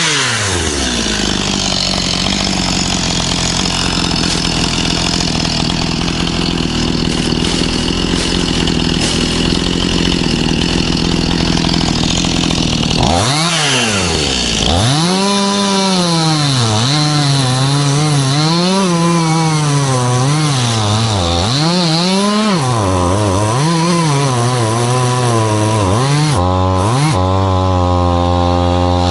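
Stihl MS211C two-stroke chainsaw running at full throttle, cutting wood, for about thirteen seconds. It then drops off, is revved up and down several times, and settles to idle near the end.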